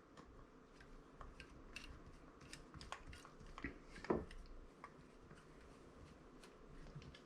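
Faint scattered clicks and small taps of hand tools and small carburetor parts being handled during disassembly, one slightly louder about four seconds in.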